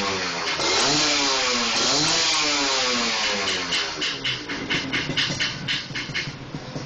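Kawasaki Ninja RR two-stroke single-cylinder engine blipped through its exhaust, the revs rising and falling twice, then dropping back with an uneven popping sputter, about five pops a second, over the last few seconds.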